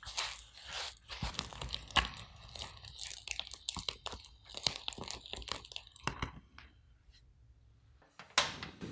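Close kitchen handling noises: about six seconds of crinkling, tearing-like scraping and small clicks, then a pause and one sharp knock near the end.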